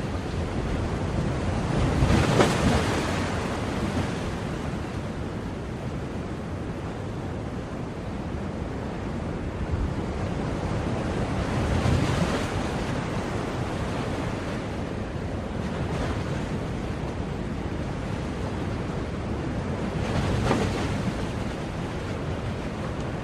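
Ocean waves breaking on a shore: a steady wash of surf with three waves swelling and breaking, about two seconds in, near the middle and near the end.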